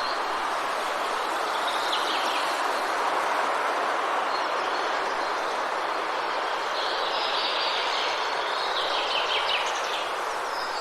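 Forest ambience: a steady rushing noise like rain in the trees, with small birds chirping over it. The birds get busier for a few seconds near the end.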